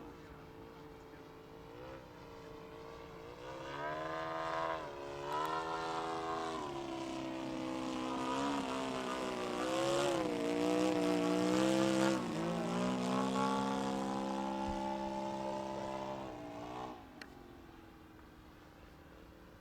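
Radio-controlled scale model Hawker Hurricane flying past: its engine and propeller grow louder from about three seconds in, the pitch sliding up and down as it passes, then drop away sharply a few seconds before the end.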